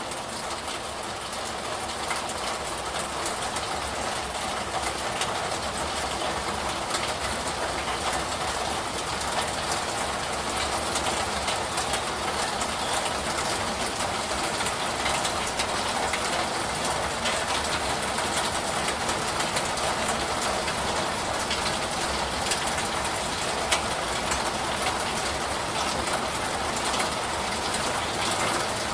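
Steady rain falling, an even hiss thick with fine drop ticks, swelling a little over the first few seconds and then holding steady.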